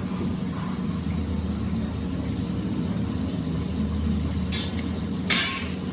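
An engine or motor running steadily with a low rumble, with a short sharp noise about five seconds in.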